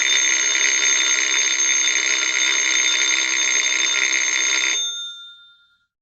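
A bell ringing continuously, like an electric alarm bell, that stops about five seconds in, with a few of its tones ringing on briefly as it dies away.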